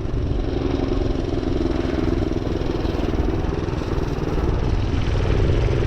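Minibike engine running steadily under way, now running smoothly after a spell of running rough.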